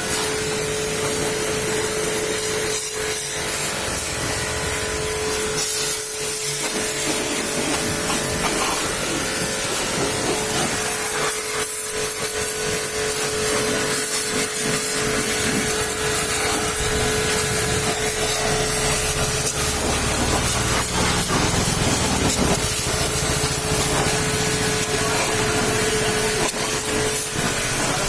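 High-pressure washing spray hissing steadily against a truck, with a steady hum underneath that fades out near the end.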